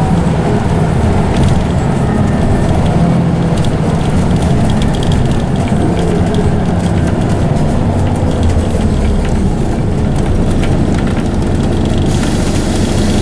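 Scania OmniCity single-deck bus on the move, heard from inside: a steady loud rumble of engine and ZF automatic drivetrain with scattered rattles.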